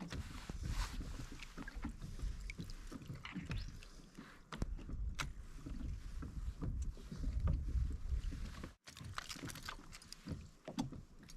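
Water sloshing against a fishing kayak's hull under a low rumble, with scattered small knocks and clicks from gear on board. The sound cuts out for an instant about nine seconds in.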